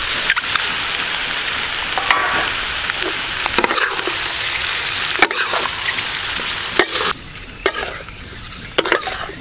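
Oil sizzling in a steel wok with frying onions and peeled boiled duck eggs as they are stirred, the metal spatula knocking against the pan now and then. The sizzle dies down about seven seconds in.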